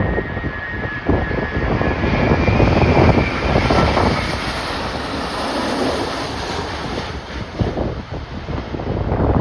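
Jet airliner engines passing, a whine and rumble that swells in the middle and fades near the end, under strong wind gusts buffeting the microphone.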